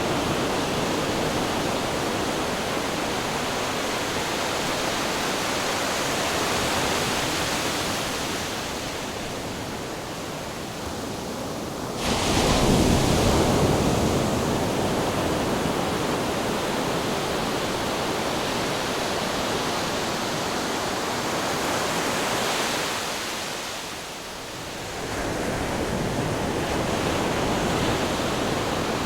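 Ocean surf with wind: a continuous wash of waves, with a wave breaking suddenly and loudly about twelve seconds in and a brief lull before the next swell about two-thirds of the way through.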